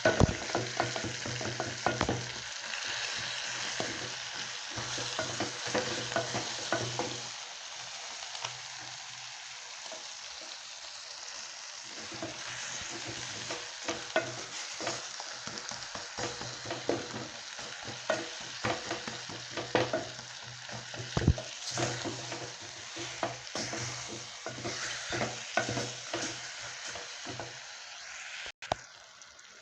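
Chicken pieces and onions sizzling as they fry in a pan, with a spoon stirring and scraping against the pan in frequent short clicks. A low steady hum runs underneath.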